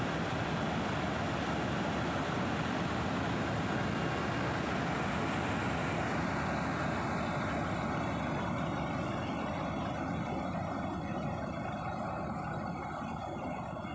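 Helicopter engine and rotor noise heard from inside the cabin in flight: a loud, steady rumble and hiss. The high hiss thins out about halfway through, and the level eases slightly near the end.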